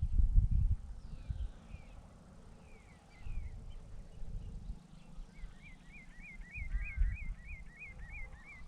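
Wild birds calling by a lake: a few short falling whistles, then a steady run of about eleven quick, evenly spaced rising-and-falling notes, about three a second, from about five seconds in. Wind buffets the microphone in low rumbling gusts, loudest at the start.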